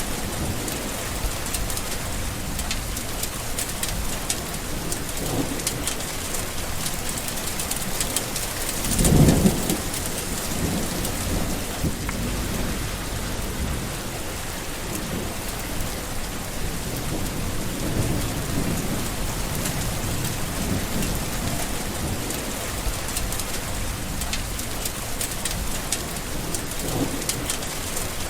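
Steady heavy rain falling, with thunder rumbling: one louder clap-and-rumble about nine seconds in and fainter distant rolls now and then.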